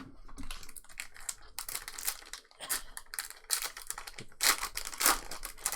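Trading-card pack wrappers crinkling and tearing as packs are ripped open, an irregular run of crackles with two louder stretches, about a second and a half in and again near the end.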